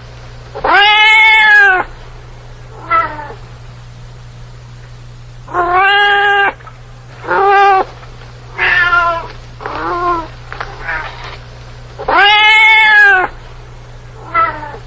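Domestic cat meowing repeatedly, about nine calls of varying length. The longest and loudest, drawn-out meows rise and fall in pitch, about a second in, around six seconds in and about twelve seconds in, with shorter, quieter meows between them, over a faint steady low hum.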